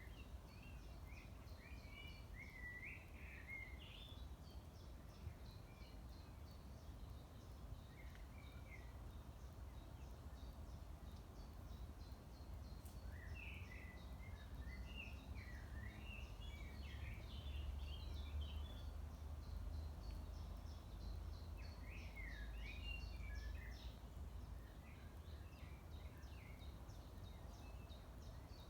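A songbird singing short warbled phrases of a few seconds each, repeated with pauses, over a steady low rumble. A faint, fast, high-pitched ticking call runs underneath.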